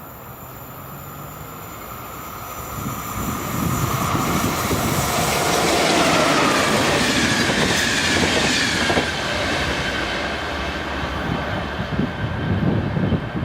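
Train approaching and passing on the line, growing louder to a peak in the middle, with high whining tones that slide down in pitch as it goes by.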